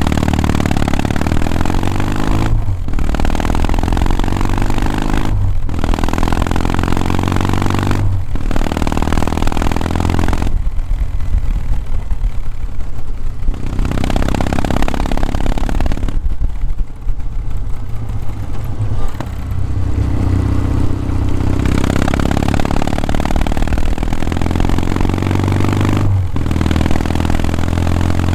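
Kawasaki W650's air-cooled parallel-twin engine and exhaust under way, pulling up through the gears: the pitch climbs and drops back at each shift, three quick shifts early on and another near the end. In between it eases off for a while, running lower and softer.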